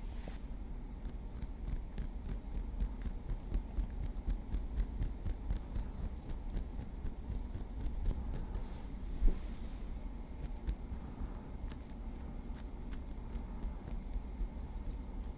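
Small wooden stick tapping lightly in a quick run of small clicks, several a second, with one louder knock and a short pause a little past the middle before the tapping resumes.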